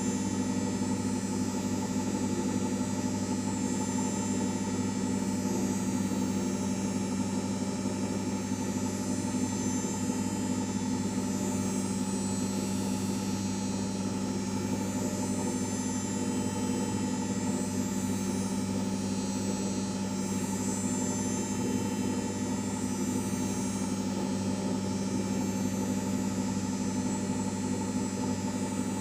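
LG 5 kg washing machine running with a steady motor-and-drum hum that holds the same pitch and level throughout.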